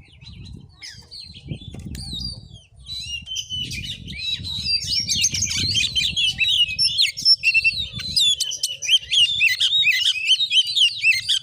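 Oriental magpie-robin singing a fast, unbroken stream of varied chirps, trills and whistles, growing louder and denser about three seconds in.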